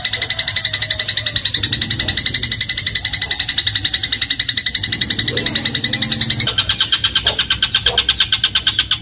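Eurasian tree sparrow giving a fast rapid-fire chatter, a rattle of sharp chirps more than ten a second, which shifts in tone about six and a half seconds in.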